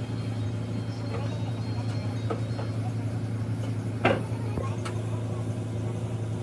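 A steady low machine hum, with scattered faint sounds over it and one short, sharp pitched sound about four seconds in.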